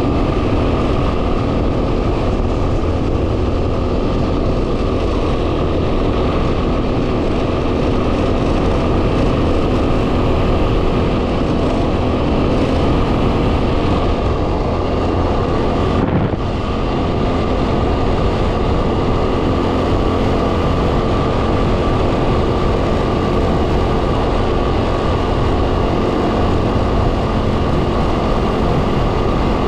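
Yamaha WR250R's single-cylinder four-stroke engine running steadily as the motorcycle rides along, under heavy wind noise on the microphone. The sound dips briefly about sixteen seconds in.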